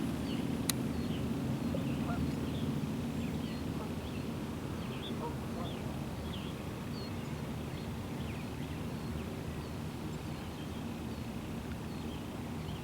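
Birds calling in the background, many short scattered calls, over a steady low rumble that eases after the first couple of seconds; one sharp click under a second in.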